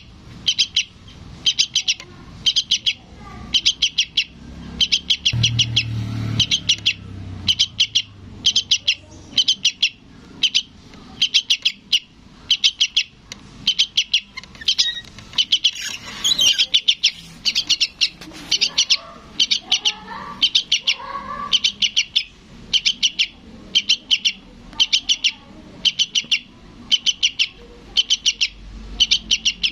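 Young yellow-vented bulbul begging calls: short bursts of quick, high chirps repeated about once a second, a fledgling calling for its parent.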